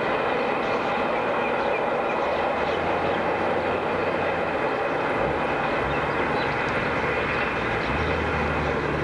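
Train running out of sight, a steady rumble with a low engine drone that shifts in pitch a few times.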